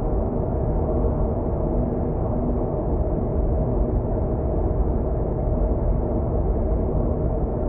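Steady road and engine noise of a car travelling on an expressway, heard inside the cabin: a constant low rumble with a faint steady hum.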